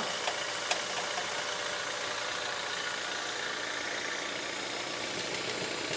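Mercedes-Benz car engine idling steadily, with a couple of faint clicks in the first second.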